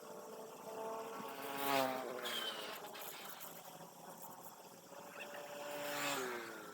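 Two small-engined vehicles pass by one after the other, about four seconds apart. Each engine rises in loudness, then drops in pitch as it goes past.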